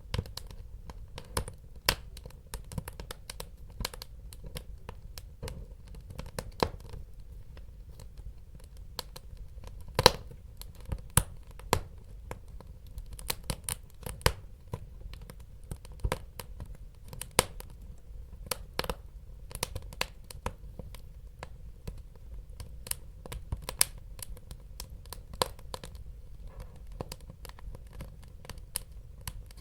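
Wood fire crackling in a fireplace: irregular sharp pops and snaps, many a second, over a steady low rumble of the burning fire, with a louder pop about ten seconds in.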